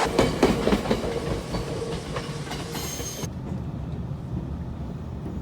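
Train running on rails: a quick series of clacks in the first second or so, then a steady low rumble.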